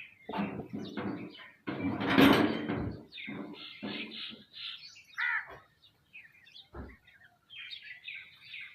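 A flock of small birds, sparrows and mynas, chirping and calling over one another in many short chirps, with a louder harsh, noisy burst about two seconds in and a rising-and-falling call about five seconds in.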